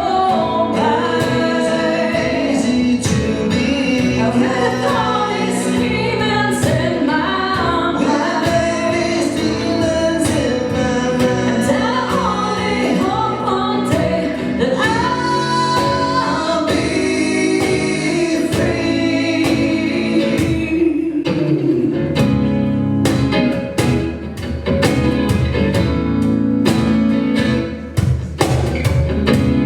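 Live band performing a song with singing over accompanying instruments, in a gospel-like style. About two-thirds of the way through the singing gives way to an instrumental passage with steady, evenly struck strokes.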